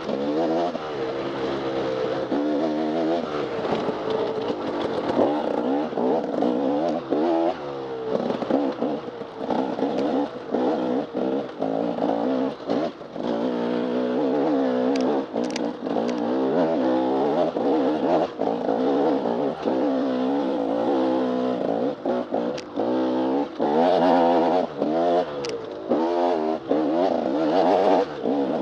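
Off-road dirt bike engine revving up and down continuously as the throttle is opened and closed, its pitch rising and falling every second or two, with short drops in level and scattered sharp clacks.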